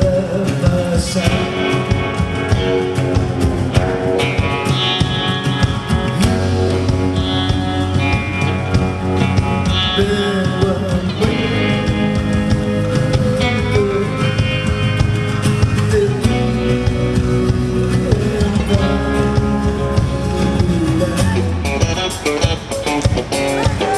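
A live band playing an instrumental passage led by guitar, over a steady bass line and drums.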